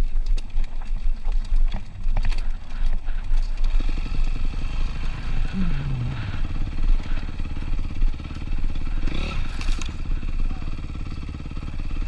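Honda CRF250R single-cylinder four-stroke motocross bike running while being ridden, with wind buffeting the microphone. The engine note drops about five and a half seconds in as the throttle comes off.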